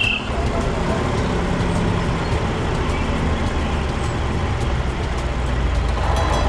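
A heavy vehicle's diesel engine running steadily.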